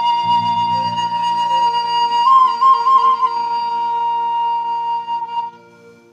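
Thai khlui bamboo flute holding a long final note of the melody, with a short trill a little past the middle, over a soft low accompaniment. The music fades out just before the end.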